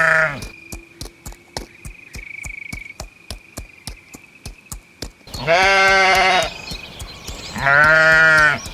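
Livestock bleating: two long, wavering bleats in the second half, after a short one ends at the very start. In between there is a fast, even ticking over a faint, steady high tone.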